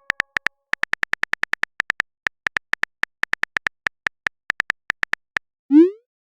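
Simulated phone-keyboard typing: an uneven, quick run of short identical high ticks, then a short rising whoosh near the end, the sent-message sound of a chat app.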